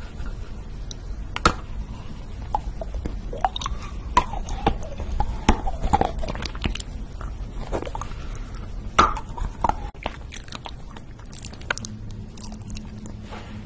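Close-miked ASMR chewing of a soft peach-shaped sweet: wet mouth smacks with irregular sharp clicks. Near the end comes biting into a jelly ball on a skewer.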